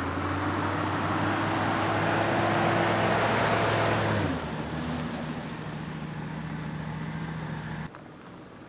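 Off-road vehicle driving a rough dirt trail: steady engine note with tyre and trail noise, loudest in the first few seconds, the engine note dropping in pitch about four seconds in. The sound drops away abruptly near the end.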